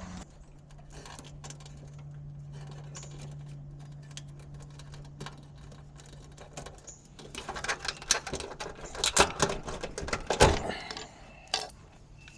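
Rapid clicking and clattering of hard objects, like metal parts or tools being handled, growing loudest and busiest toward the last third. A low steady hum runs underneath at first and fades about two-thirds of the way in.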